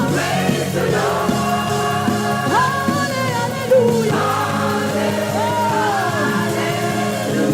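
Gospel praise music: a group of voices singing over held low chords, with sliding, gliding vocal lines on top.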